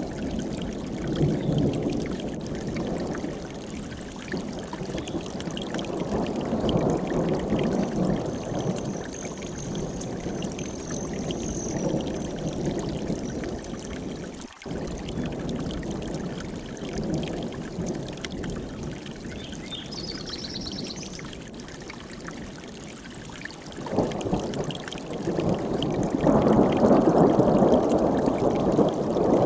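Mountain stream rushing, a steady water noise that swells and eases and grows louder near the end, with a brief dropout about halfway through.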